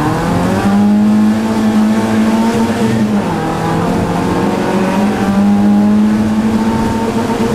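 BMW E30 318iS rally car's four-cylinder engine heard from inside the cabin, pulling hard under full acceleration. Its pitch climbs through the gear, drops at an upshift about three seconds in, then climbs again.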